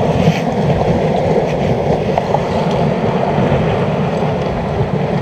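Steady rushing outdoor noise of wind and sea at a rocky shoreline, with no distinct events.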